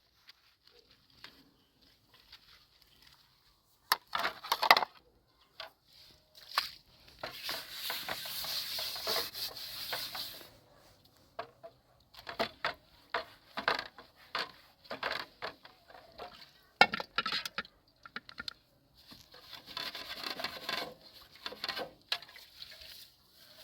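Knocks and clinks of kitchen items being handled, with two longer stretches of rubbing or scraping noise.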